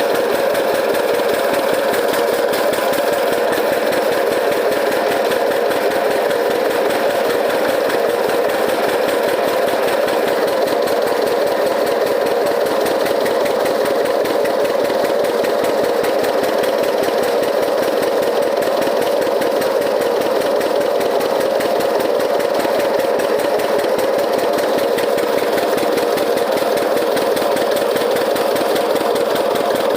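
Diesel engine running steadily at constant speed, with a rapid, even knock from its firing.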